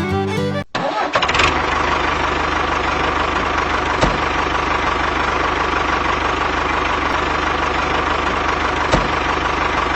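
Engine running steadily with a fast low chugging, starting abruptly just under a second in as music cuts off.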